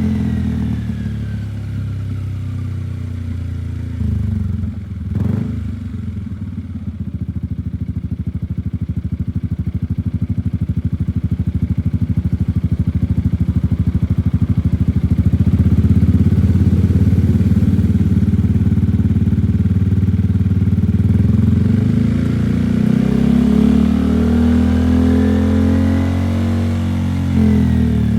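Yamaha XMAX scooter's single-cylinder four-stroke engine running through a Salvator aftermarket exhaust with a deep, bassy note, revs dropping back just after the start and holding steady, getting louder through the middle. Near the end the engine revs up and falls back.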